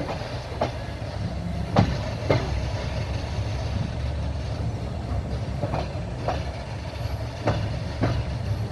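Passenger train running, heard from inside the carriage: a steady low rumble of the wheels on the track, broken by sharp clacks that come in pairs about half a second apart as the wheels cross rail joints.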